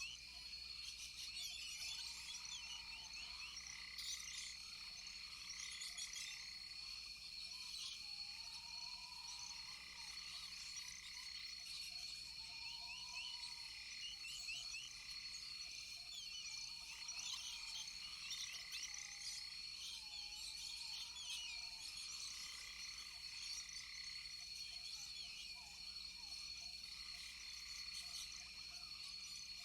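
Rainforest chorus of frogs and insects. A steady high-pitched trill runs under many quick overlapping chirps, and a lower arching call comes back every few seconds.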